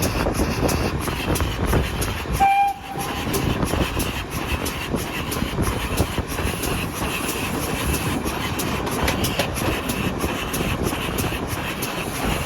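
Heritage train running on the West Somerset Railway, with a steady rumble and rapid clicking of wheels over rail joints. A brief pitched tone sounds about two and a half seconds in, during a short dip in the noise.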